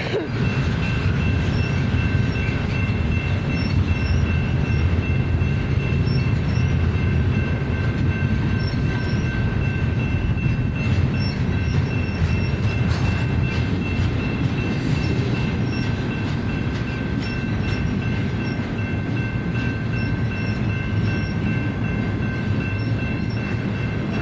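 Double-stack intermodal freight train rolling past: a steady rumble of wheels on rails, with a thin steady high tone running over it.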